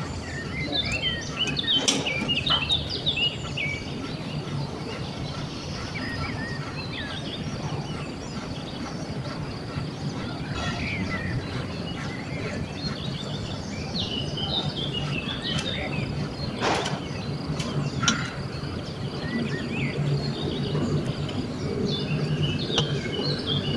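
Small birds chirping repeatedly over a steady low background hum, with a few sharp knocks, the loudest about two-thirds of the way through.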